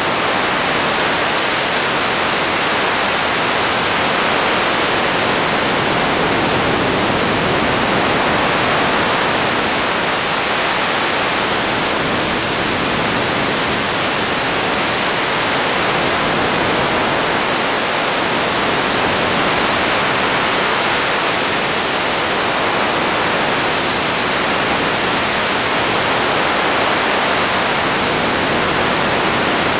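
Radio static: a steady, even hiss with no tones or voices.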